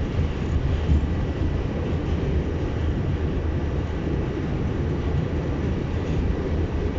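New York City N-train subway car running between stations, heard from inside the car: a steady low rumble of the wheels on the rails.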